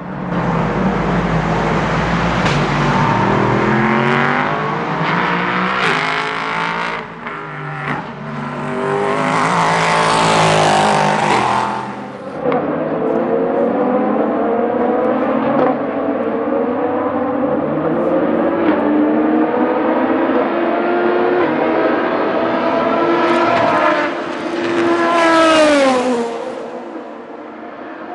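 Several race cars passing at speed one after another, engines at high revs, their pitch rising and falling as they go by. Near the end one car passes close, its engine note dropping sharply as it goes away.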